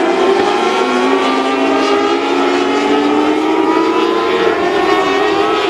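Several small-engine mini sprint race cars running together on a dirt oval, their engine notes overlapping and each rising and falling in pitch as the drivers work the throttle.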